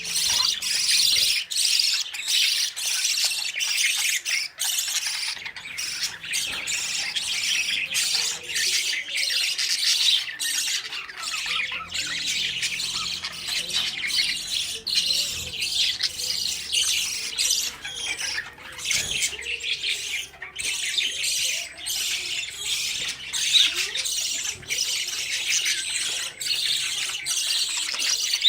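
Budgerigars, fledgling chicks among them, chattering and squawking nonstop in a dense overlapping mass of short, harsh calls: young budgies begging their parents for food.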